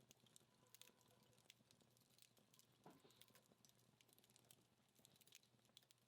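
Faint, sparse crackling of a dying wood fire: irregular small snaps and ticks from the burning-down logs.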